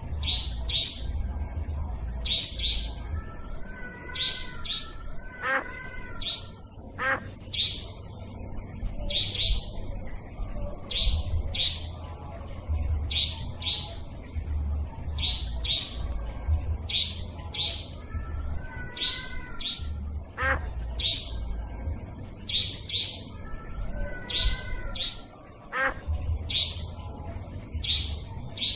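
Nightjar (cabak) calls played as a bird-lure recording: sharp, high calls in quick pairs, repeated every second or two, with a lower wavering call now and then over a low rumble.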